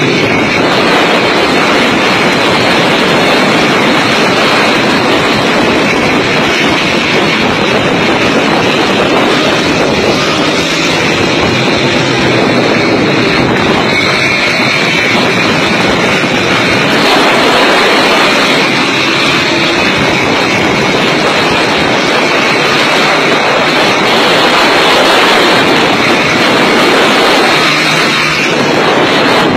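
Motorcycle on the move: a loud, steady rush of engine and wind noise that holds evenly without pauses or sudden changes.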